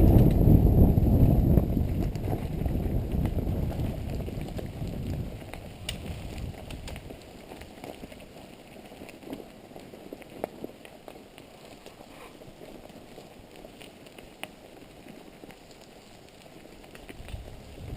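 Mountain bike riding on a dirt trail: a low rush of wind and tyre rumble, loud at first and dying away over the first several seconds as the bike slows, then a quieter stretch with scattered small clicks and ticks from the tyres and bike.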